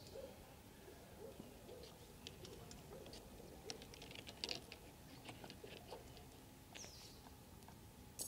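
Faint outdoor quiet with a bird's short falling call at the start and again near the end, over scattered light ticks and clicks, and one sharp click just before the end.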